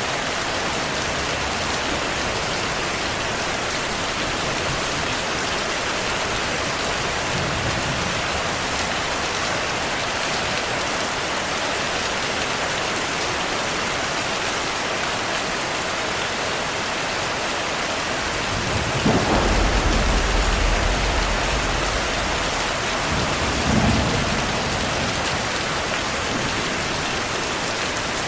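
Steady heavy rainfall with thunder: a loud low rumble about two-thirds of the way through, lasting a few seconds, followed by a second shorter clap.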